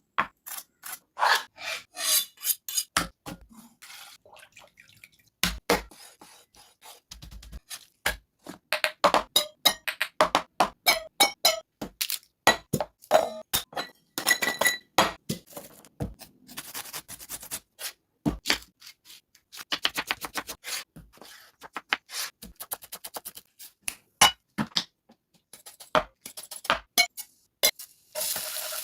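Kitchen preparation sounds: a long run of sharp taps, clicks, scrapes and clinks of utensils against bowls and dishes, in quick irregular bursts.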